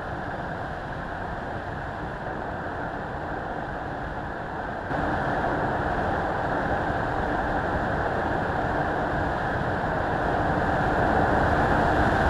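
Car driving on the road: a steady rush of engine and road noise. It steps up in level about five seconds in, grows a little louder near the end, and then cuts off abruptly.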